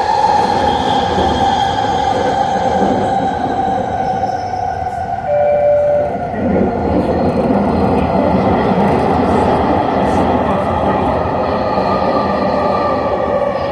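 A SkyTrain car running on its linear-induction motors, heard as steady rumble with a motor whine whose tones slowly fall in pitch and then rise again near the end. A short steady tone sounds about five seconds in.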